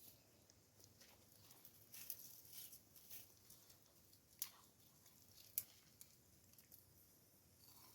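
Near silence broken by a few faint, scattered clicks and taps, the two sharpest about four and a half and five and a half seconds in.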